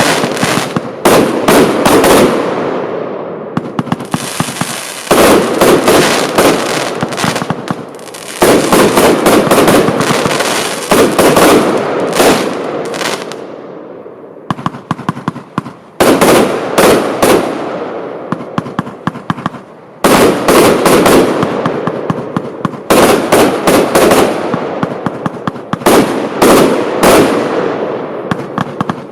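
Lesli Bloodhound compound fireworks cake firing: rapid volleys of sharp shots come every three to four seconds, each followed by a noisy wash of bursts that fades away before the next volley.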